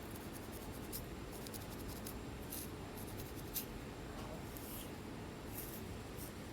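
Scalp being scratched and picked to lift thick dry flakes: irregular short, dry scratches, with one sharper click about three and a half seconds in, over a steady low background noise.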